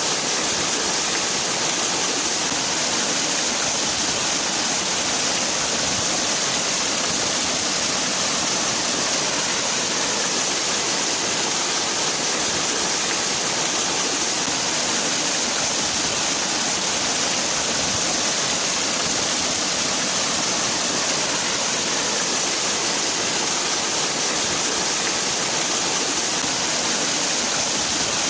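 Waterfall: water falling and splashing in a steady, unbroken rush, with a bright hiss on top.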